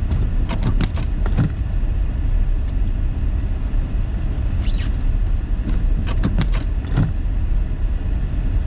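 Steady low rumble of a car driving slowly through deep snow, heard from inside the cabin. A cluster of sharp knocks comes in the first second and a half and again around six to seven seconds in, with a short hiss near the middle.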